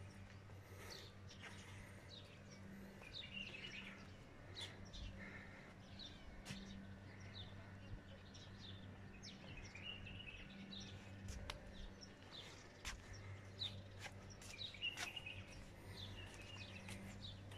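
Faint, scattered bird chirps and calls, many short notes from several directions, over a steady low hum.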